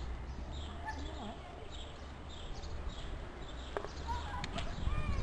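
Small birds calling with short, falling chirps that repeat about every half second, over a low steady rumble.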